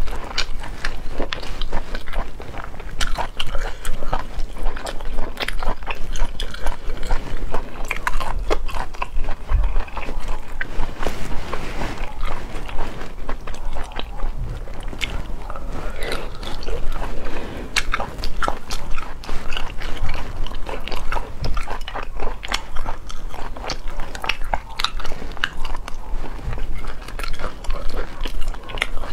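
Close-miked eating of sauced snail meat pulled from the shell: chewing with many sharp, irregular mouth clicks and smacks.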